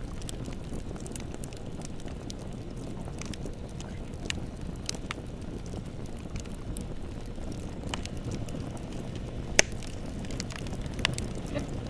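Bonfire burning: a steady low rumble of flames with scattered sharp crackles and pops, the loudest pop about ten seconds in.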